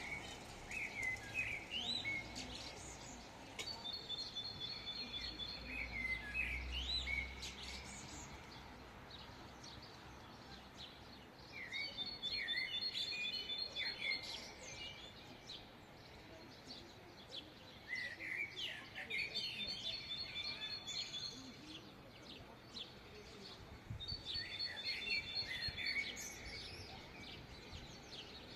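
A songbird sings a repeated phrase about every six seconds: slurred whistles, then a rapid run of short, even notes. Steady low city background noise lies underneath, with a brief low rumble about six seconds in.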